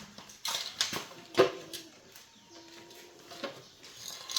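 Scattered clicks and knocks of tools and parts being handled during repair work, with a faint short low tone about halfway through.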